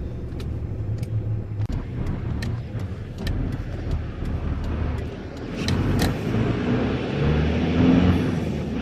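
A vehicle engine running, with a few light clicks in the first few seconds; the engine note rises and gets louder about seven seconds in.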